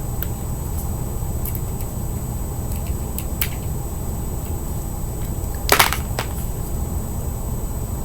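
Small sharp clicks and taps of metal fingerboard truck hardware and a skate tool being handled, with a louder cluster of clicks about six seconds in, over a steady low hum.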